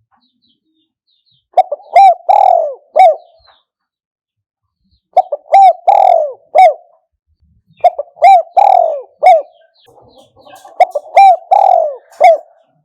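Spotted dove cooing its song, four phrases of several rolling coos each, with short pauses between them: the call used to lure wild doves to a decoy bird.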